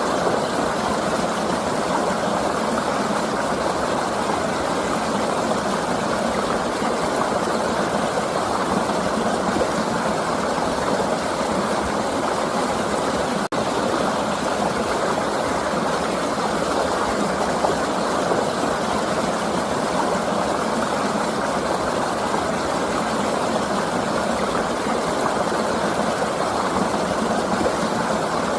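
River water flowing in a steady rush, with a split-second dropout about halfway through.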